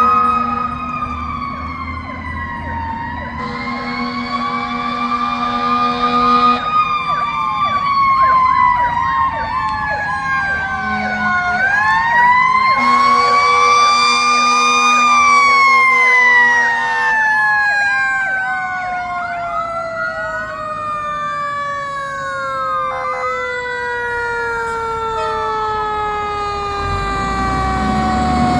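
Fire engine siren wailing in slow rising and falling glides, then winding slowly down through the second half. Steady horn tones sound with it at the start and again around the middle.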